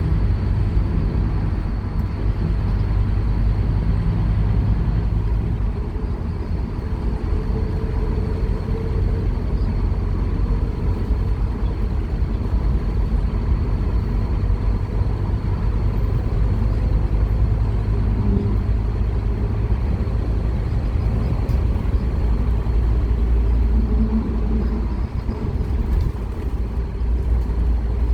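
Scania K230UB Omnilink single-decker bus's five-cylinder diesel engine running under load as the bus is driven, a steady low drone with road noise.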